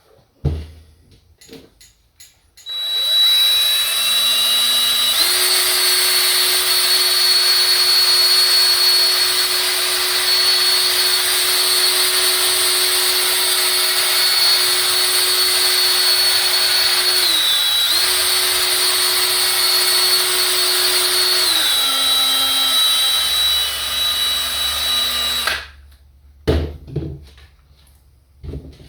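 Small electric power tool running for about twenty seconds with a steady whine and hiss; it speeds up a couple of seconds after starting, dips briefly once, slows, then stops. A few short knocks come before and after it.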